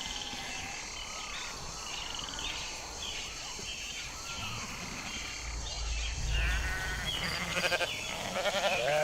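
A flock of sheep bleating, with many calls overlapping. A louder, wavering bleat comes in near the end, and a low rumble runs through the middle.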